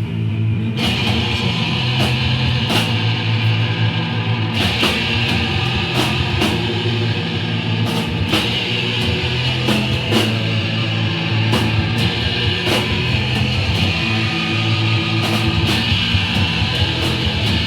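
Hardcore punk band playing live: heavy distorted guitar and bass, with the full band kicking in about a second in and sharp hits cutting through every second or two.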